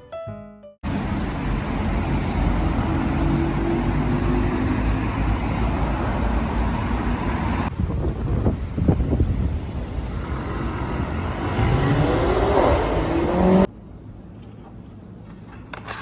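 Road traffic noise: cars passing on a street, in clips cut together, with a pitch that rises and falls as vehicles go by near the end. It cuts off suddenly to a quiet steady background.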